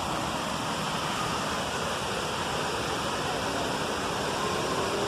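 Minneopa Falls waterfall rushing steadily, a constant roar of falling water.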